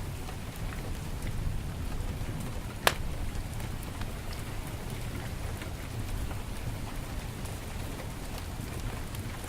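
Heavy rain falling steadily, mixed with a wood fire crackling in a fireplace: scattered small crackles and one sharp pop about three seconds in.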